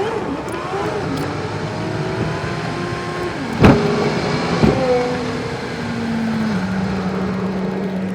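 Car engine running while driving, its pitch rising at the start and stepping down about two-thirds of the way through. Two sharp thumps come a little past the middle; the first is the loudest sound.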